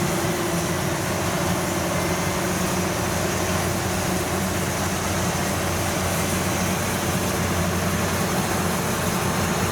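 Kubota DC93 combine harvester's diesel engine and threshing machinery running steadily under load while it cuts rice in a muddy paddy.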